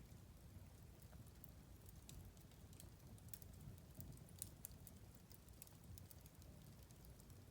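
Faint crackling of a fire in a fireplace: scattered sharp snaps and pops, a few a second, over a soft low rumble.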